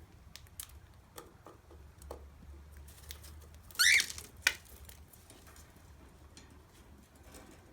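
Cockatiel giving one short, sharp chirp that sweeps upward in pitch about four seconds in, with faint scattered clicks and taps around it.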